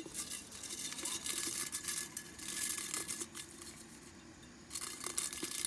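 Rustling and crinkling in three bursts, the first two long, the last near the end.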